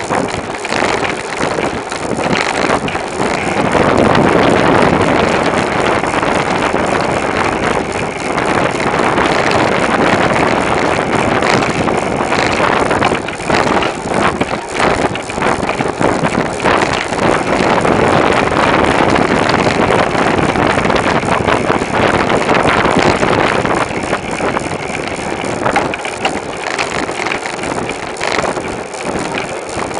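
Steady rushing wind on the microphone of a camera riding on a moving bicycle, with the bike's road noise underneath, swelling and easing a little as the speed changes.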